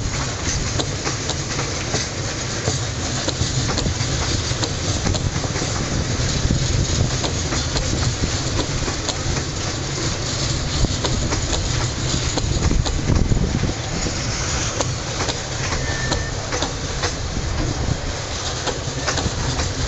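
Freight wagons rolling past close by on a coal railway. Steady wheel rumble with a run of clicks and clacks as the wheels cross rail joints.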